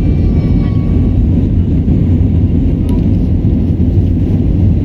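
Airbus A320 cabin noise during takeoff: a loud, steady low rumble of the jet engines and airflow heard from inside the cabin. There is a faint voice in the first second and a single sharp click about three seconds in.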